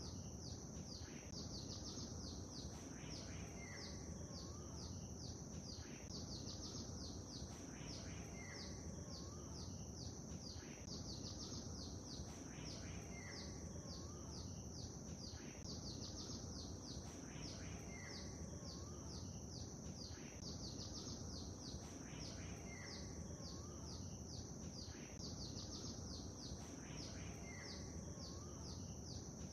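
Small birds chirping and twittering densely over a steady low wash of lake water. The same pattern of calls comes back about every two and a half seconds.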